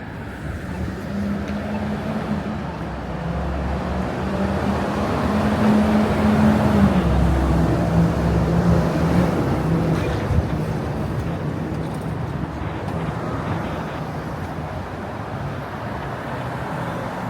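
City street traffic, with a large vehicle's engine humming as it passes. It grows to its loudest about halfway through, then the hum drops slightly in pitch and fades back into the general traffic noise.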